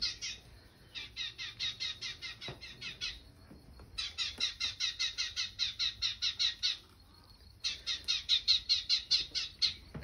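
Small birds chirping in rapid runs of repeated calls, about seven a second, three runs of two to three seconds each with short pauses between, played through a TV's speakers.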